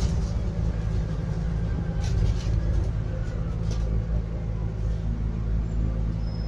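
Scania N280UD biogas double-decker bus heard from inside while driving: its five-cylinder gas engine gives a steady low hum, with a faint rising whine about two seconds in and a few light body rattles.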